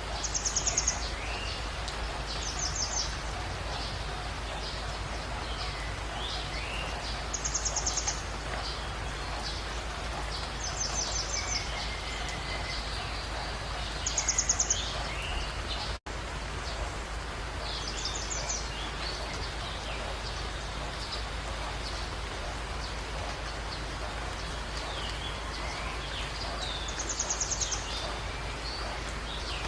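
Birds calling over a steady background hiss. One bird repeats a short, very rapid high trill every few seconds, while others give scattered lower whistled notes. The sound drops out for an instant about halfway through.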